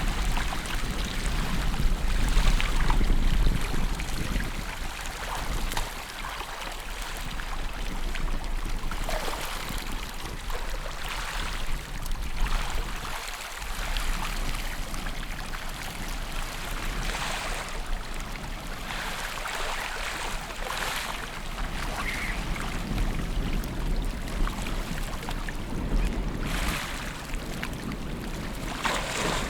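River water splashing and rushing, with surges every couple of seconds, and wind rumbling on the microphone.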